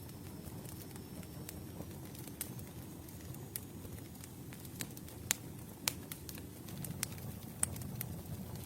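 Campfire burning: a steady low rumble of flames with irregular sharp crackles and pops from the burning wood, a few louder pops past the middle and near the end.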